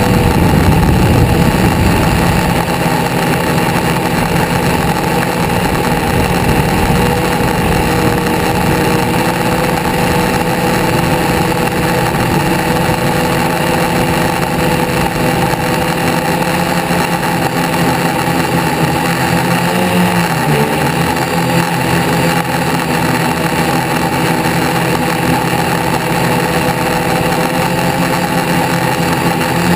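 A vehicle engine running steadily at idle, its pitch dipping and rising briefly about twenty seconds in.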